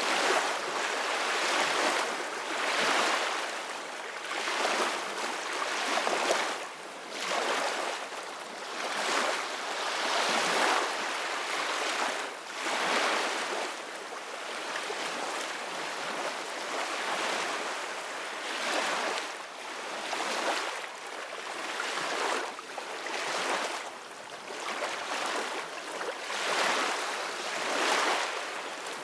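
Ocean waves washing in, the surf swelling and ebbing every two to three seconds as a steady hiss-like wash.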